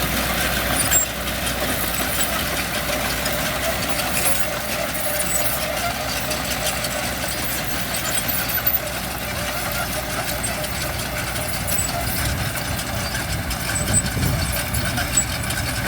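Diesel engine of heavy construction machinery running steadily, its low rumble growing stronger near the end.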